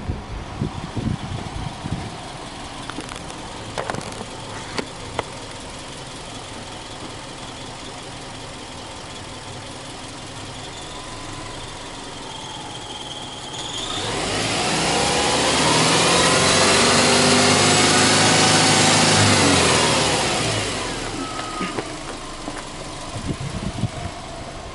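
Subaru Legacy Touring Wagon 2.0R's 2.0-litre flat-four idling steadily, with a few knocks near the start and end. About halfway through it is revved up with no load, held high for about five seconds, then drops back to idle.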